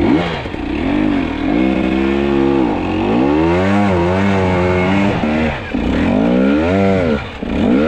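Two-stroke fuel-injected enduro dirt bike engine revving up and down over and over, about five or six rises and falls in pitch, as the rider works the throttle to claw up a difficult climb.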